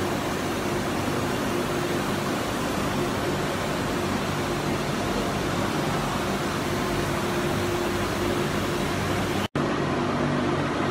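Commuter train running past an underground station platform: a steady rumble and hum of the moving train, with a few faint low tones. The sound breaks off for an instant about nine and a half seconds in, then carries on the same.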